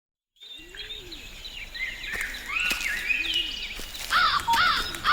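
Several birds singing and calling in a forest, with many short chirps and sliding whistles that start about half a second in and grow busier and louder near the end.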